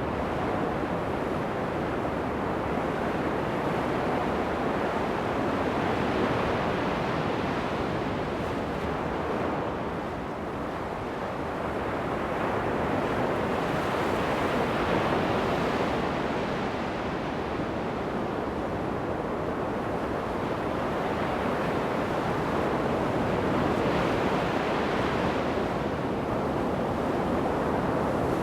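Ocean surf breaking on a sandy beach, a continuous wash that swells and eases every several seconds as waves come in, with some wind on the microphone.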